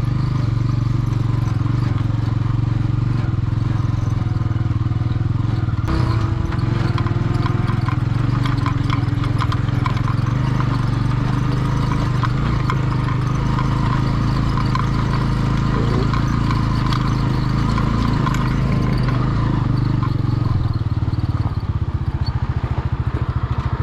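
Motorcycle engine running steadily while riding, with clattering and rattling over a rough track; near the end the engine note drops and its individual pulses become distinct as the bike slows.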